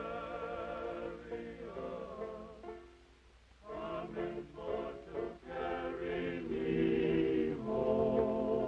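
A choir of voices singing slow, held chords in harmony. There is a short break about three seconds in, and the singing swells louder in the second half.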